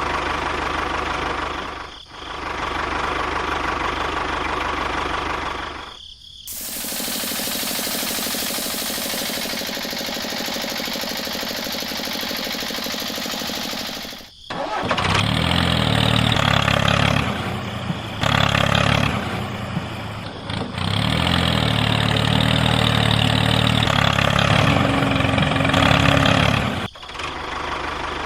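Engine running, heard in several separate clips with abrupt cuts between them. A stretch of steady hiss runs from about six to fourteen seconds in. It is followed by a louder, deeper, pulsing engine sound.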